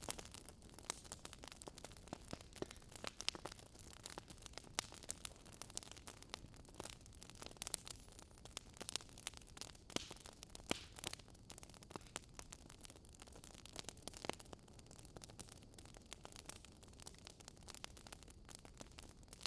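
Wood fire crackling: irregular pops and snaps over a soft steady hiss.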